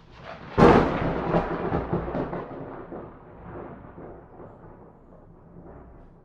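A single thunderclap: a sharp crack about half a second in, then rolling rumbles that die away over about five seconds.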